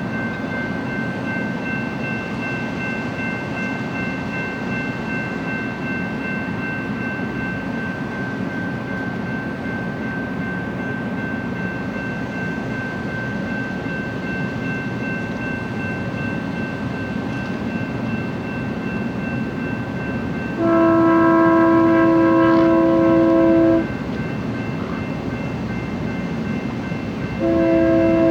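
Freight train rolling by with a steady rumble and a steady high-pitched whine. About three-quarters of the way in, a diesel locomotive's multi-note air horn gives one long blast of about three seconds, and it starts another long blast near the end.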